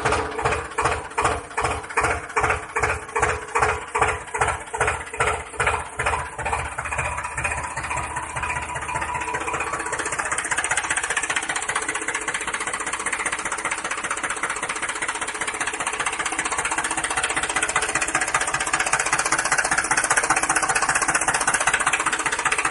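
A small engine chugging in even pulses, about three a second, then running steadily from about eight seconds in.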